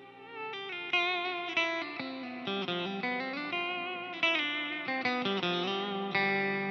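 Electric guitar played through an EarthQuaker Devices Avalanche Run delay and reverb pedal. A melodic line of single picked notes, some with wavering pitch, each trailing into the next, ends on a long held note about six seconds in.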